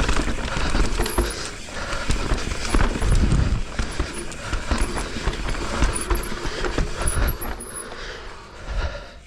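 Mountain bike riding over a dirt trail: tyre noise with a steady clatter of chain and frame rattling over bumps, and a low rumble of wind on the microphone. It gets quieter near the end as the bike slows.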